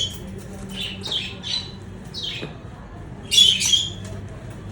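Birds squawking in short, harsh bursts, several times, with the loudest cluster near the end.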